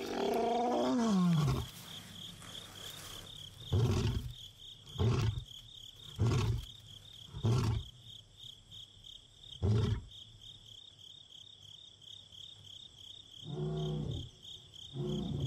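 Male lion roaring: one long call falling in pitch, then a series of short grunting roars a second or so apart, and two more near the end. Crickets chirp steadily throughout.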